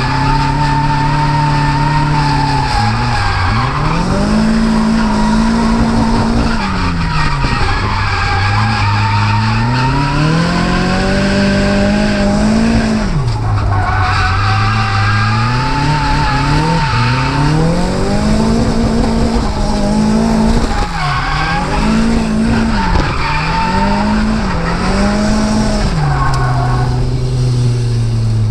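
Nissan S14's turbocharged SR20DET four-cylinder engine revving hard in a drift run, its pitch climbing and dropping again and again as the revs rise and fall, with tyres squealing under the sideways slide.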